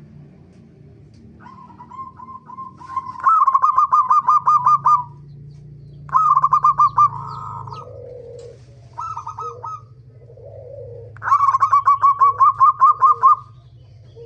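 Zebra dove (perkutut) cooing: four bouts of quick staccato notes, about six a second, the longest near the end, with softer low coos between the bouts. A low steady hum runs underneath.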